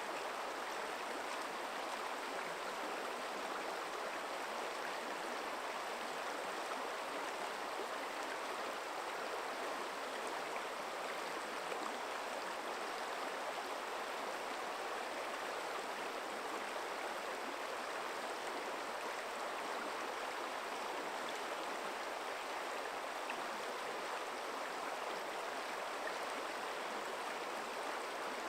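Forest stream flowing over rocks, a steady rushing and burbling of water with no change in level.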